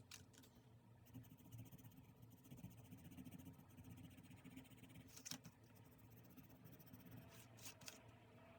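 Faint desk sounds of paper crafting: quiet rustling of paper and stationery, with a few light clicks at the start, about five seconds in, and twice near the end.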